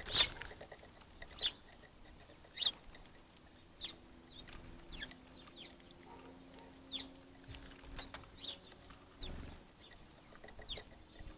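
Small garden birds giving short, sharp, high chirps, each dropping quickly in pitch, about a dozen scattered irregularly, the first the loudest. A faint steady low hum runs through the middle and ends with a soft thump.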